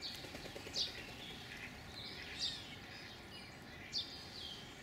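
Birds chirping: a louder high peep that slides downward comes about every second and a half, three times, over fainter, busier chirping.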